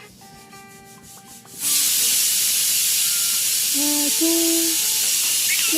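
A loud, steady hissing noise starts abruptly about a second and a half in and keeps going, with a few short whistled notes over it later.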